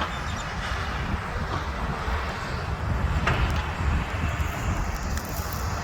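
Wind buffeting the microphone outdoors: an uneven low rumble under a steady hiss, with a brief faint high note about three seconds in.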